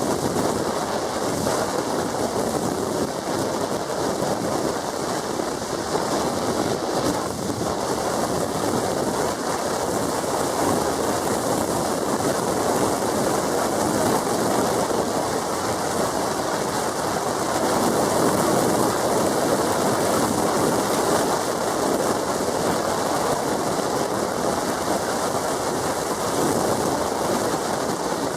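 Steady rushing road and wind noise from a moving vehicle, even throughout with no engine note standing out.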